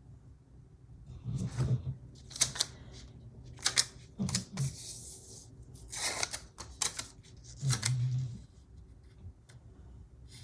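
Stickers and paper being handled on a desk: a handful of sharp clicks and taps with short papery rustles in between, one longer rustle near the middle.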